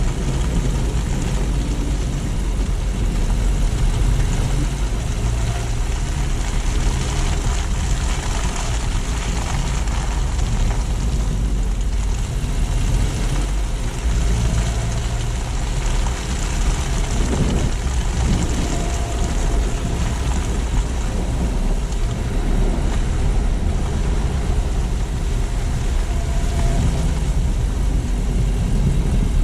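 Car driving on city streets: steady engine and road noise with a strong low rumble throughout.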